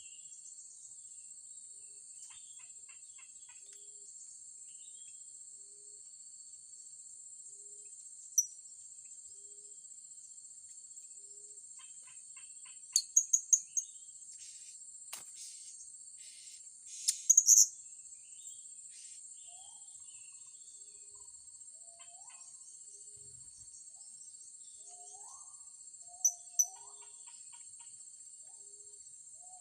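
Blue-crowned hanging parrots (serindit) giving short, sharp, high-pitched calls in brief bursts: once, then four in quick succession, a tight cluster, and two near the end. A steady high insect drone runs underneath.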